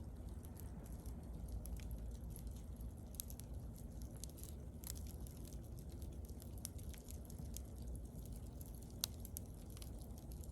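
Wood bonfire crackling, with scattered sharp pops and snaps over a low steady rumble; one louder pop about nine seconds in.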